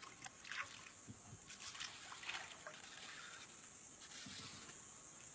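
Faint, irregular small splashes and drips of water.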